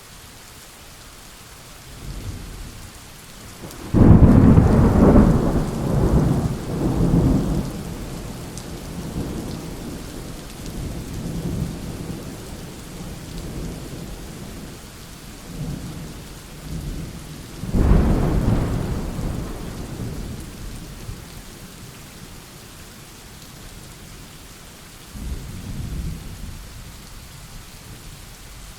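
Thunderstorm: steady rain falling, with two loud thunderclaps, one about four seconds in and another about eighteen seconds in, each rolling on as a low rumble for several seconds, and a fainter rumble near the end.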